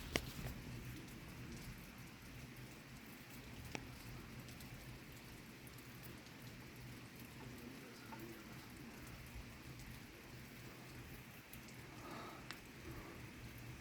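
Steady rain falling during a thunderstorm, faint and even, with scattered sharp drops ticking on surfaces.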